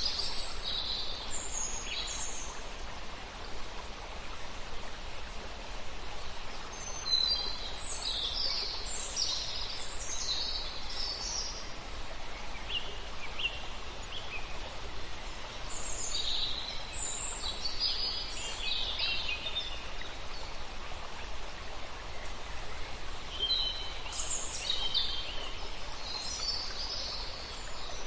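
Wild birds singing: clusters of quick, high chirping phrases every few seconds, over a steady background hiss.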